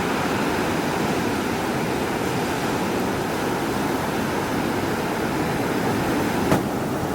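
Steady rushing of wind and water, with one brief click near the end.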